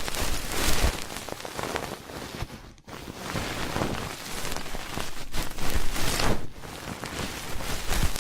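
Close-miked ear-cleaning ASMR sounds: an ear pick or similar tool scratching and rubbing right at the microphone, a dense crackle of tiny clicks that comes in swells, breaking off briefly just before three seconds in.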